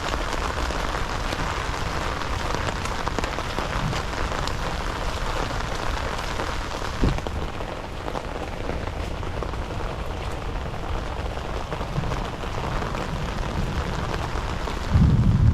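Heavy rain falling steadily, a dense even hiss of drops, with one sharp tap about seven seconds in. Right at the end a loud low rumble sets in.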